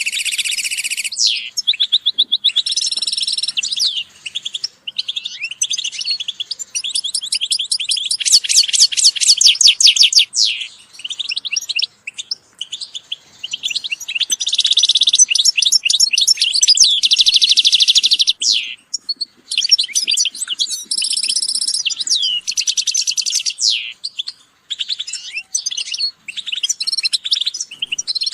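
Several European goldfinches singing and calling together: fast twittering phrases, rapid trills and buzzy notes, with only brief pauses.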